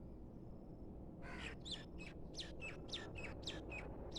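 A bird calling: after about a second, a quick run of roughly nine short, sharp chirps, about three a second, over faint outdoor background noise.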